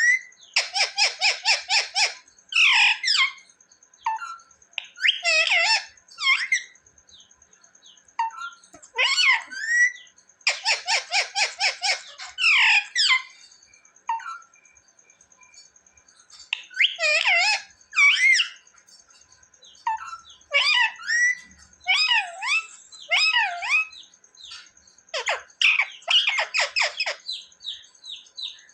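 Ringneck parrot calling: fast runs of sharp, repeated screeching notes a second or two long, mixed with single warbling squawks.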